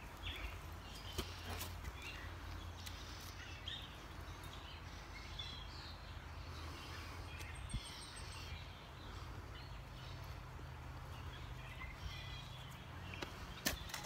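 Birds chirping and calling in short, scattered notes over a steady low background hum.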